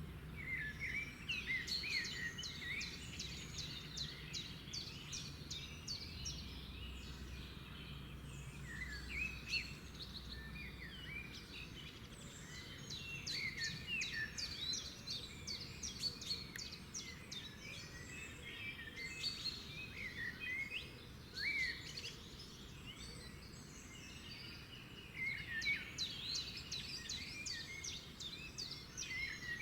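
Several songbirds singing and calling together: overlapping chirps and rapid trills that come in busy spells a few seconds long, over a faint low background rumble.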